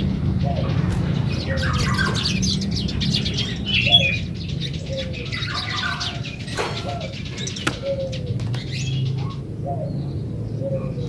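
Yellow-vented bulbul singing lively, rapid chattering phrases of quick chirps, with a short lower note repeating about every second and a half over a steady low hum.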